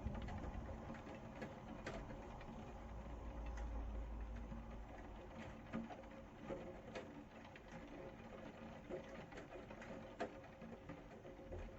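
Rain falling, a soft steady hiss with irregular ticks of drops landing. A low rumble swells and fades a few seconds in.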